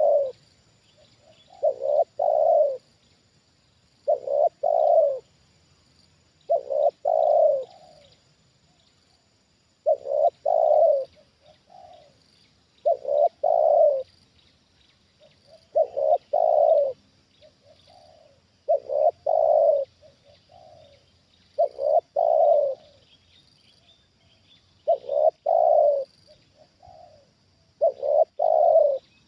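Spotted dove cooing its repeated call, a phrase of a few quick coos about every three seconds.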